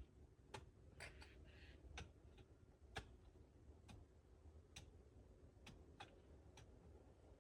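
Faint, scattered sharp clicks, single ones at uneven spacing about once a second, over a faint low rumble.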